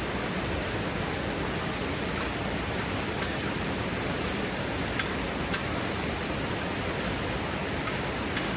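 Food sizzling steadily on a Scuttle camp griddle, with a few faint ticks about three and five seconds in.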